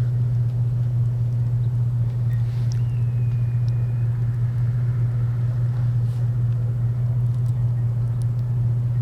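Steady low drone of an idling vehicle engine, unchanging throughout, with a faint brief whistle about three seconds in.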